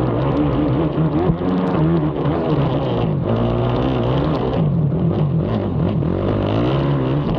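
Racing ATV engine revving up and backing off again and again under the rider's throttle, its pitch rising and falling with each shift and corner. A few short knocks are mixed in, the sharpest about a second in.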